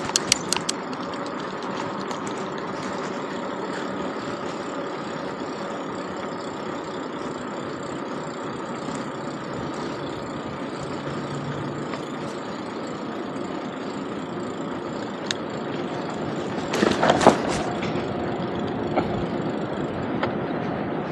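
Steady engine rumble, with a few sharp clicks at the start and a louder burst of clattering about three-quarters of the way through.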